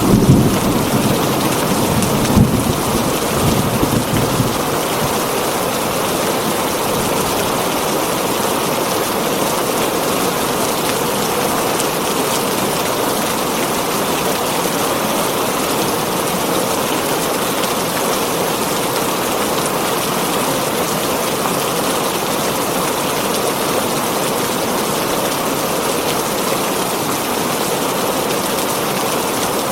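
Heavy rain falling on a tin roof as a steady, even hiss. A thunderclap with low rumbling in the first few seconds, loudest right at the start and again about two and a half seconds in, dies away by about four seconds in.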